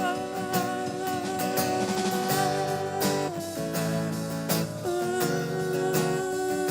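Live guitar-led band music playing an instrumental passage: strummed acoustic guitar with long held notes over it, and no singing.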